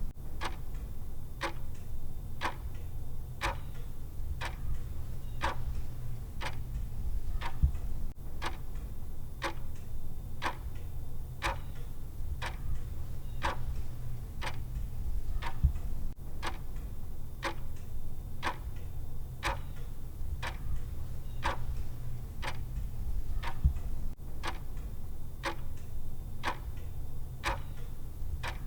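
Clock tick sound effect ticking steadily, evenly spaced ticks a little faster than one a second, over a steady low hum.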